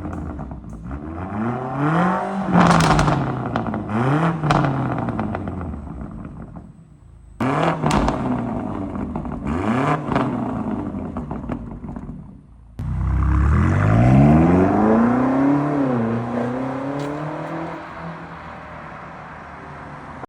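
BMW G90 M5's twin-turbo V8 exhaust being revved in repeated blips, the pitch rising and falling with each one. After an abrupt cut comes a longer, higher rev that falls back, and the engine settles to a steady idle near the end.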